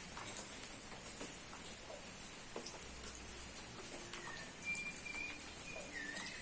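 Rain pattering, with scattered drips, and a bird giving a few short whistled calls in the second half.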